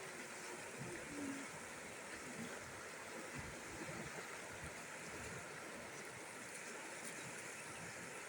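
Rain falling steadily, an even wash of water noise.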